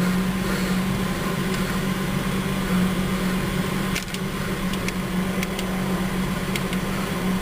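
2003 Ford Ranger idling, heard as a steady hum from inside the cab, with several light clicks from about halfway through as the radio's controls are pressed.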